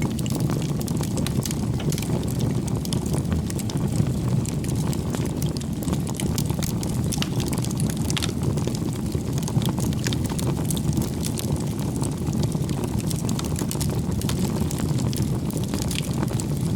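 Wood fire burning steadily with a low rush of flames and frequent small crackles and pops of the burning firewood.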